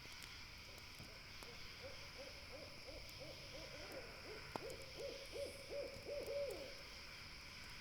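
An owl hooting a long series of short hoots, about three a second, growing louder toward the end and stopping a second before the end. Faint campfire crackles and pops, one sharper pop in the middle, sit over a steady night hiss.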